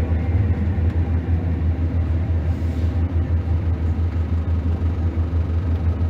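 Scania DC9 diesel engine of a Scania L94UB city bus running with a steady, deep rumble.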